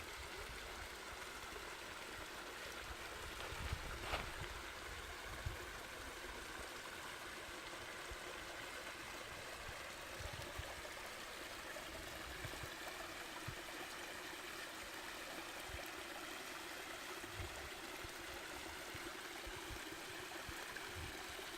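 Steady rushing of a flowing stream, with irregular low wind buffeting on the microphone and a single light knock about four seconds in.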